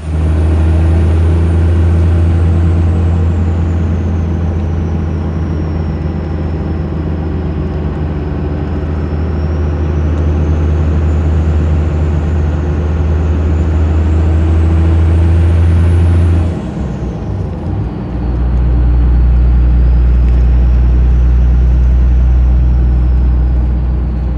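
Cummins 12-valve inline-six diesel with an HX35 turbo and 4-inch straight-pipe exhaust, driving under load: a steady deep exhaust drone with the turbo's high whistle slowly rising and falling over it. About 16 seconds in, the whistle drops and the engine note dips and breaks up for over a second, as in a gear change on the 5-speed, then the engine comes back in at a lower pitch.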